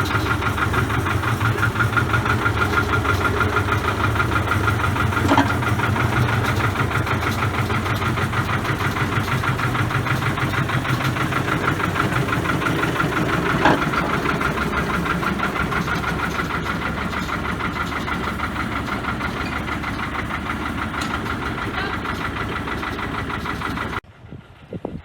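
Small railway locomotive's diesel engine running steadily with an even, fast beat, with a couple of brief clicks. It cuts off abruptly about a second before the end.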